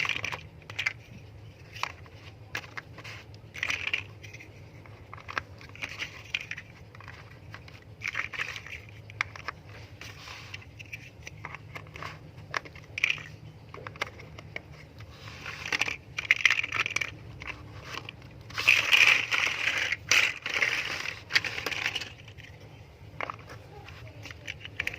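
Plastic LEGO pieces being handled: sharp clicks as parts are pressed together, and short rattling bursts as loose bricks are stirred and sorted. The longest and loudest rattle comes a little past the middle, over a steady low hum.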